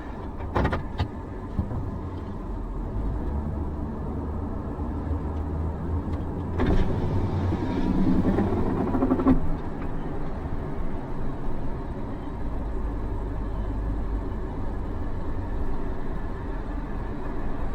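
A car's engine and tyre noise heard from inside while it drives along, a steady low rumble with a few clicks near the start and a louder stretch about halfway through.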